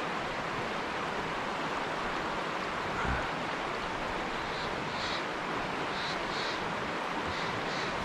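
Steady rushing of a fast-flowing trout stream, with a brief low knock about three seconds in.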